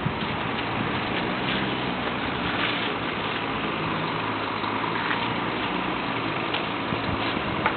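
A small river ferry boat's engine running steadily at low revs, with a few light knocks.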